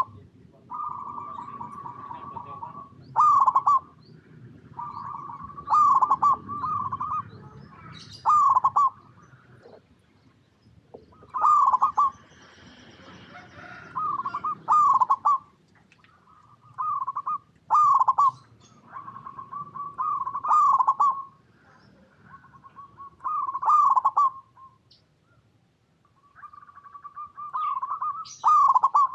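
Zebra dove (perkutut) singing its cooing song: phrases of quick rolling notes, each broken by short loud coos, repeated about every two to three seconds.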